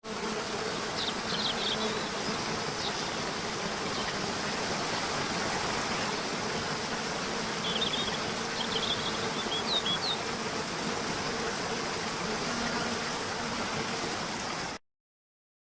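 Steady buzzing of flying insects over a soft hiss, with a few short high chirps about a second in and again around eight to ten seconds. It cuts off suddenly near the end.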